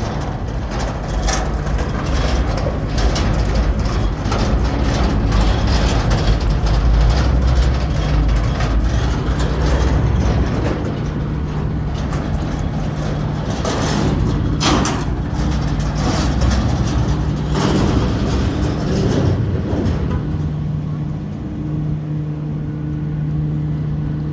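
Garbage truck's engine running heavily, with repeated clanks and knocks over it. Near the end the knocks stop and it settles to a steadier idling hum.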